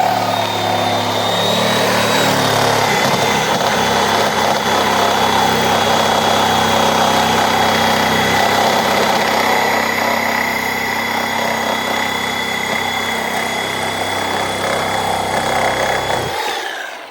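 Power saw running steadily as it cuts through a wooden play set's post at the base, stopping near the end.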